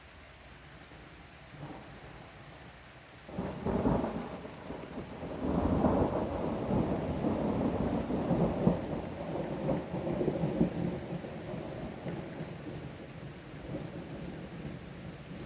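Thunder over steady rain: a sudden clap a few seconds in, then a long rolling rumble that is loudest around the middle and slowly dies away.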